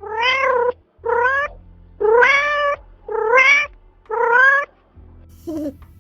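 A cat meowing five times in a row, about once a second, each meow rising in pitch, followed by a fainter, shorter meow near the end.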